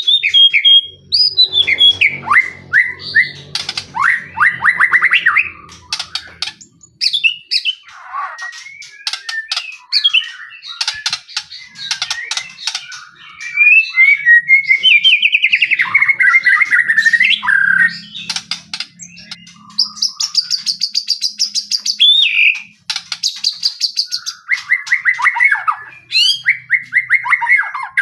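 White-rumped shama (murai batu) in full, loud song: a varied run of clear whistles, fast rattling trills and rapid repeated notes with short pauses between phrases.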